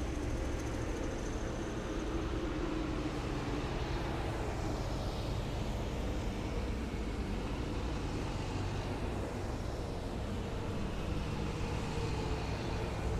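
Heavy military vehicles driving past in a column, their engines giving a steady low rumble. Twice a higher whine slides down in pitch as vehicles go by.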